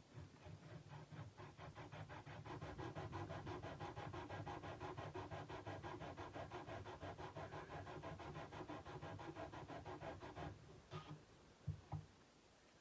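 Sandpaper rubbed rapidly back and forth along a steel kukri blade, several strokes a second in an even rhythm. The strokes stop suddenly, followed by a couple of light knocks.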